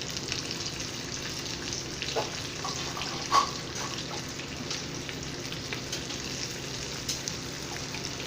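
Seasoned flounder frying in hot grease in a pan: a steady sizzle with scattered crackles. A few light knocks sound over it, the loudest about three and a half seconds in.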